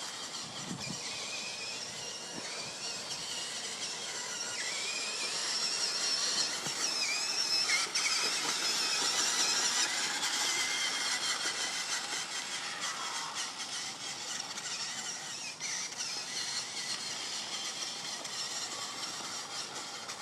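Toy monster truck's small electric motor and gears whining at high pitch, the pitch wavering up and down with the throttle. It is loudest about a third to halfway through.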